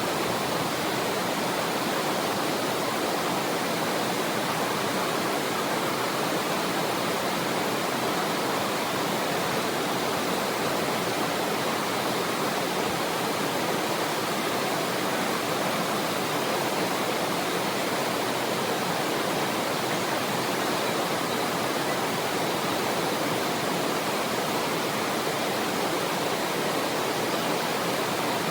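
Waterfall rushing, a steady even roar of falling water that does not change.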